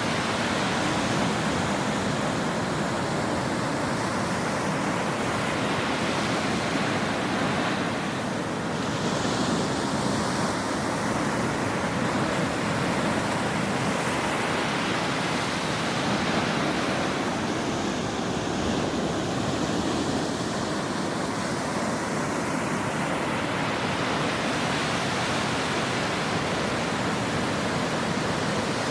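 Ocean waves washing onto a shore in a continuous rush of surf, the hiss of the surf swelling and easing slowly.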